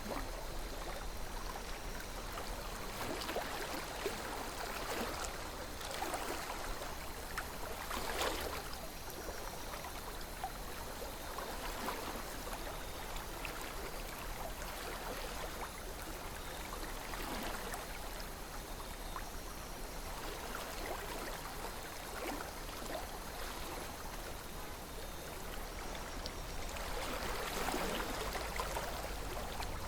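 River water flowing and trickling steadily, with gentle swells in the rush every few seconds.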